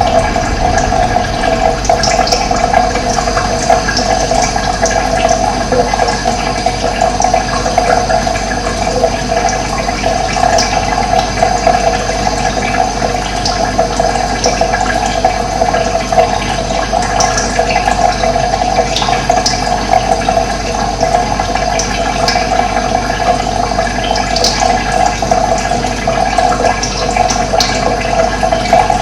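Running water flowing steadily, with faint short bird chirps now and then.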